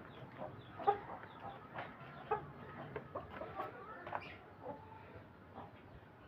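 Chickens clucking: many short calls, some overlapping, scattered irregularly.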